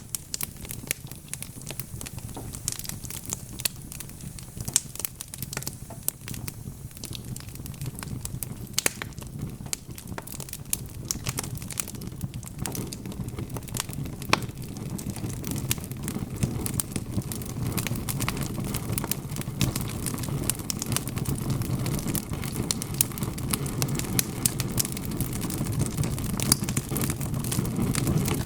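Fire crackling and popping in a fireplace, with dense sharp crackles over a low rumble of burning that grows louder in the second half.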